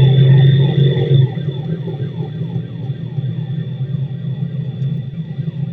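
Police siren in a fast yelp, each sweep falling in pitch, about three to four sweeps a second, over a steady low hum. The whole sound is louder for the first second or so, then drops a little.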